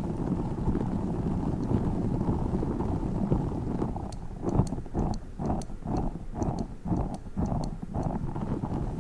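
Tiny spiky Orbeez ball handled right against the microphone: a steady low rubbing rumble, then from about four seconds in a run of rhythmic pulses, about two a second, each with faint sharp clicks.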